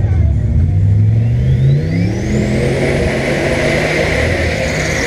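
Turbocharged drag cars, a Golf Mk2 and a V8 Ford Mustang, accelerating hard down the strip: engine note rising in pitch, with a thin high whine climbing steeply over the first few seconds and then holding, under a steady rush of noise.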